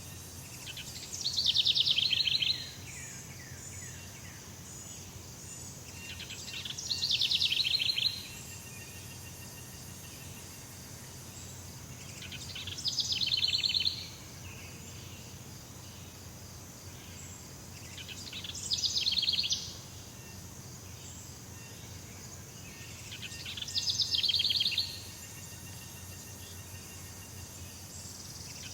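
Jungle ambience: an animal's rapid, high-pitched trilling call, repeated five times about six seconds apart. Each call lasts about a second and a half, swells in loudness and then stops abruptly. Under the calls runs a steady, high-pitched insect drone.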